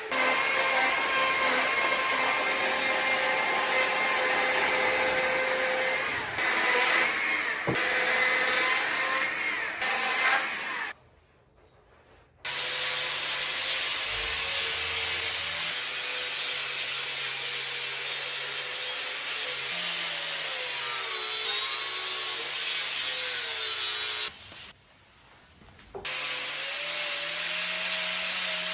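Chainsaw running at high revs and cutting into wood, its pitch wavering slightly under load. It breaks off abruptly twice to near silence, about a third of the way in and again near the end, each time for a second or so.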